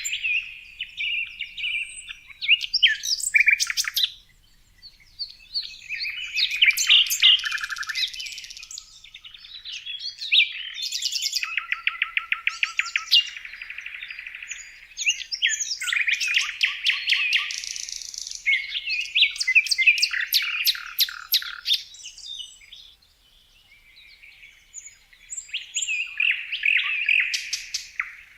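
Songbirds singing: bursts of high chirps, whistles and rapid trills, in phrases broken by short pauses.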